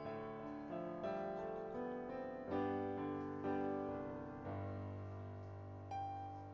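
Slow, gentle piano music: chords and single notes struck and left to ring, over held bass notes.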